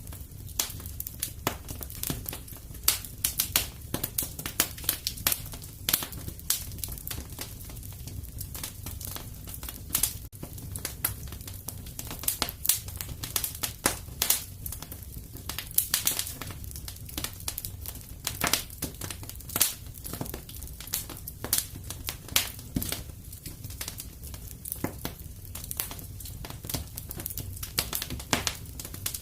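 Fireplace wood fire crackling, with irregular sharp snaps and pops over a steady low rumble.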